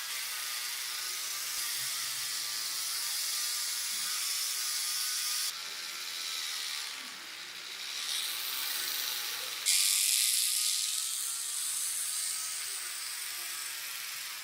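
A small handheld power tool running with a steady, scratchy whir as it works on the model. The sound shifts abruptly twice, about five seconds and about ten seconds in.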